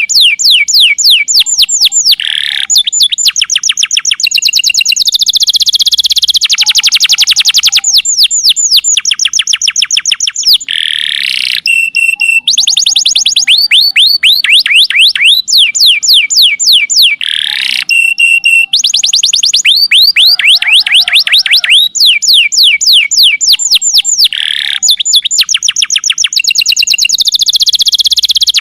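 Domestic canary singing without pause: fast trills of falling whistled notes alternating with buzzy rolls and held notes, with the same phrases coming back over and over.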